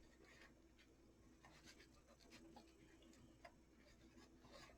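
Near silence: room tone with a few faint, irregular small clicks from objects being handled.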